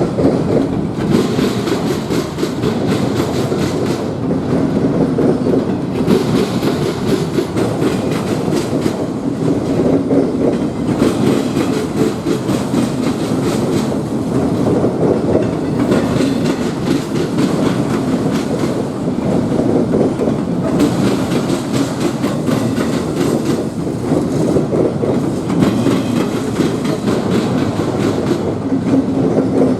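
A train's cars rolling steadily past, wheels clacking over the rail joints.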